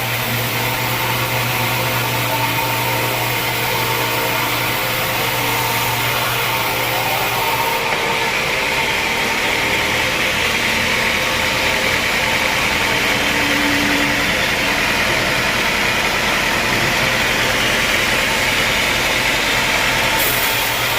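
Sawmill machinery running steadily: a constant engine-like hum under a broad mechanical noise, the high hiss easing about eight seconds in.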